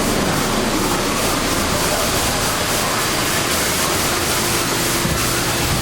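Steady rushing noise like moving water and wind, without distinct events, from the boat ride's soundscape.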